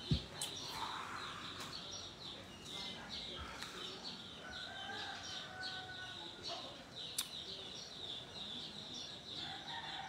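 Birds chirping faintly and repeatedly, a couple of short high chirps a second, with a longer call midway. There is a soft breath of exhaled vape vapour near the start.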